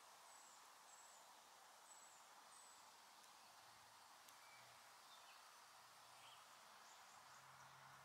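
Near silence: faint outdoor ambience with a few short, high-pitched bird chirps in the first three seconds and fainter ones later.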